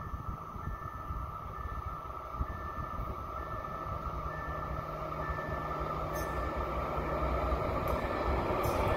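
Approaching passenger train hauled by an electric locomotive, its rumble growing steadily louder as it nears.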